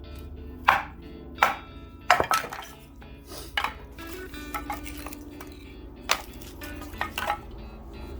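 Sharp knocks of batoning: a knife driven through persimmon wood with strikes of a baton, about seven irregular blows with a cluster about two seconds in. Background music plays throughout.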